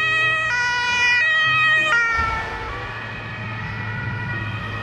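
Toy ambulance's electronic siren sounding a two-tone hi-lo wail, the pitch switching about every three-quarters of a second. After about two seconds it drops to a lower, quieter tone and goes on.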